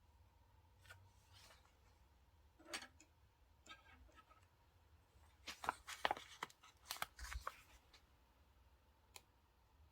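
Paper and stickers being handled while a diary page is decorated: scattered light taps and short rustles, with a busier flurry of crinkles and taps a little past halfway.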